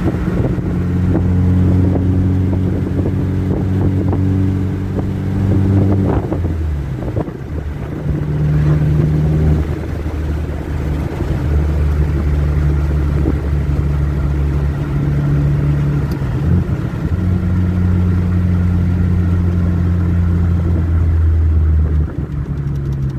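Turbocharged Chevrolet Cobalt SS engine heard from inside the cabin while driving. It is a steady drone whose pitch changes a few times, with drops in pitch after about 6 and 22 seconds.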